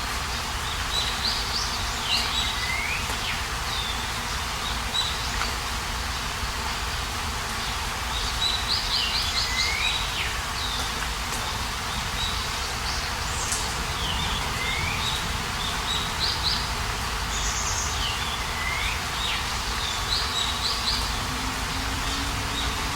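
A songbird singing short, repeated phrases of quick notes and downward slurs, one burst every few seconds, over a steady outdoor background hiss and low rumble.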